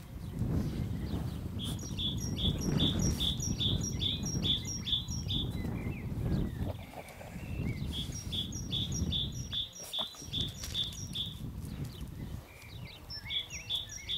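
A small bird singing runs of rapid, evenly repeated high chirps, about four a second, three times over, over a louder low rumbling noise.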